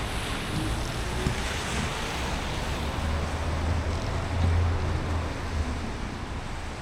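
A car driving on a rain-soaked road: a steady hiss of rain and tyre spray over a low road rumble, which grows louder for a couple of seconds midway.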